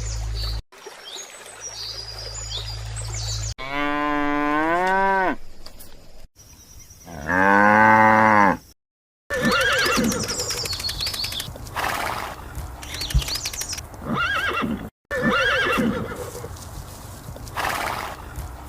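A cow mooing twice, two long drawn-out moos about four and seven seconds in, the second louder. Birds chirp before them, and a busy jumble of bird and animal calls follows, with abrupt cuts between clips.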